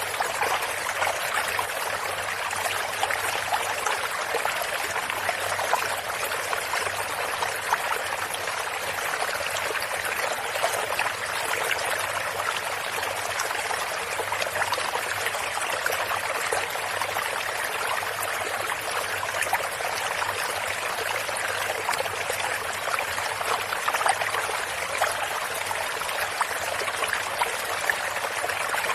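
Running water of a stream or brook, a steady rush with a fine continuous trickle and splash.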